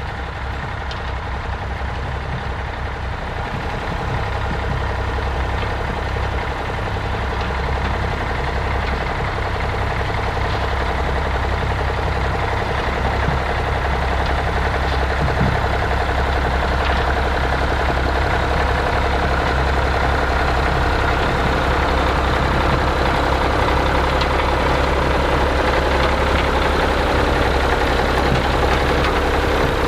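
Vintage tractor engine running steadily, growing louder over the first several seconds and then holding even.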